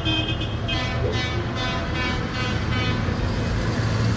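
Tractor engines running with a steady low drone, while horns toot: one at the very start and another about a second in, fading away after.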